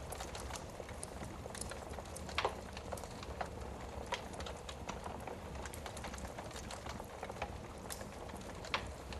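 Wood fire burning in a fireplace, with irregular crackles and pops over a steady low background hum. Two louder pops come about two and a half seconds in and near the end.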